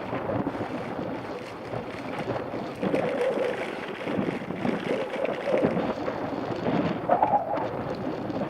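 Wind buffeting the microphone of a Shimano CM-1000 action camera on a moving mountain bike: an uneven rushing noise that swells and fades in gusts.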